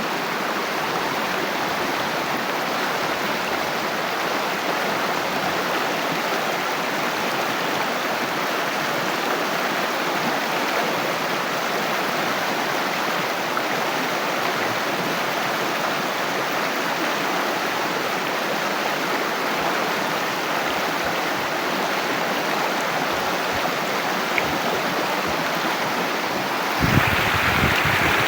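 Water flowing steadily, an even rush with no breaks; it grows a little louder near the end.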